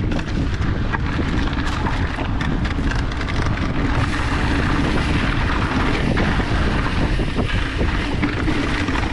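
Mountain bike riding fast over rough, rocky dirt: a steady rush of wind on the microphone and tyre rumble, with scattered clicks and rattles from the bike over the rocks.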